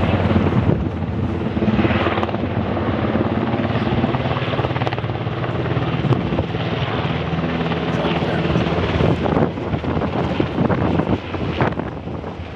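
HH-60 rescue helicopter hovering low over water, its rotor and engines making a steady hum with several held pitches. Gusts of wind on the microphone come in near the end.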